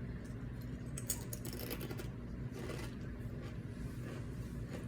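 Faint, irregular crunching and clicking of tortilla chips being chewed, over a low steady hum.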